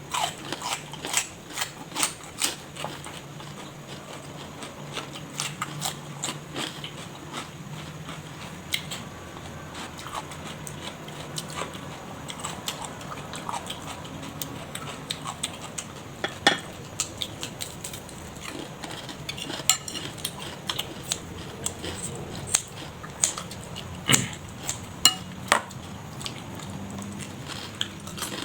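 A person eating: chewing and biting food, with scattered sharp clinks of utensils against dishes at irregular intervals.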